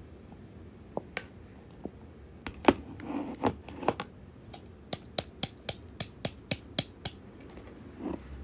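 Sharp taps and clicks of kitchen handling: a few scattered knocks, a louder cluster about three seconds in, then a run of about eight evenly spaced clicks, roughly three a second.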